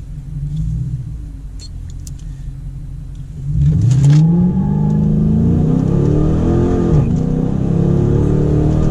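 Dodge Challenger R/T's 5.7-litre Hemi V8, heard from inside the cabin, idling low for about three seconds and then put to full throttle for a 0–60 run. The revs climb sharply, dip at an automatic upshift about seven seconds in, and climb again.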